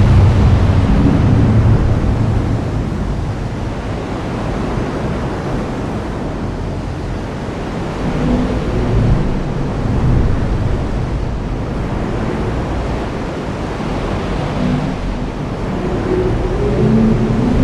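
Heavy rain falling in a steady hiss, with low rumbles of thunder swelling and fading about a second in, around eight to ten seconds in, and again near the end.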